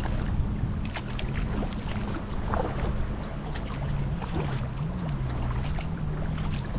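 Kayak paddling on calm water: small splashes and drips from the paddle, with wind rumbling on the microphone and a low hum that wavers in pitch.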